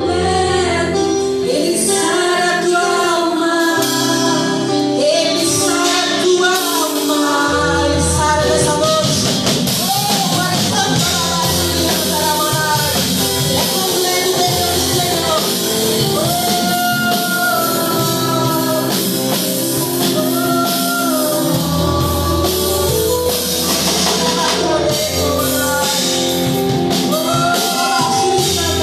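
Live gospel worship music: a singer leading a melody over a band with drum kit.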